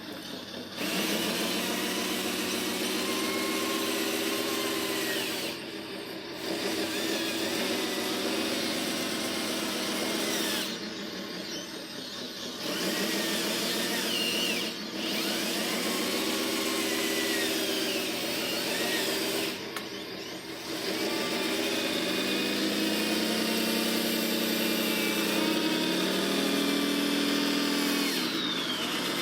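Small electric motors and gearing of a radio-controlled construction model whirring in stretches, stopping briefly a few times, with the pitch rising and falling as the motors speed up and slow down.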